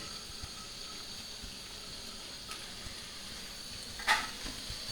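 Food sizzling steadily in hot oil in a pan, with a single short clink of a utensil against the pan about four seconds in.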